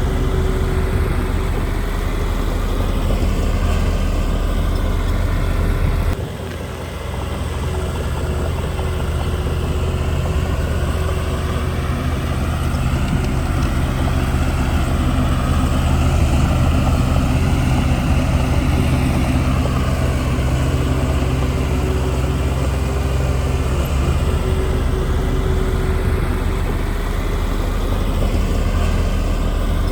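Heavy diesel engine of a bulldozer running steadily under load, with a brief drop in engine note about six seconds in before it picks up again.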